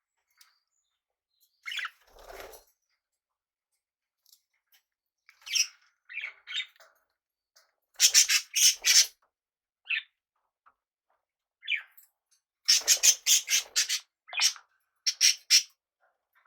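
Small pet parrots calling: short separate chirps and calls with gaps of silence, and two runs of quick, repeated harsh calls about eight seconds in and again near thirteen seconds.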